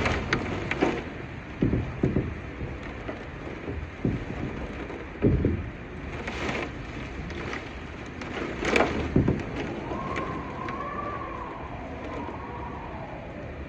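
Steady rain hiss with irregular sharp knocks scattered through it, and a faint wavering tone near the end.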